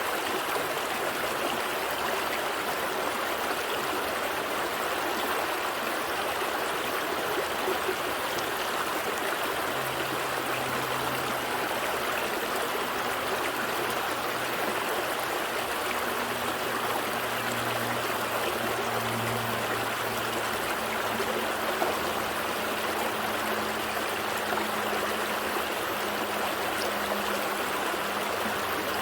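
Gentle stream flowing with a steady, even rush of water. About ten seconds in, a faint low hum joins beneath it.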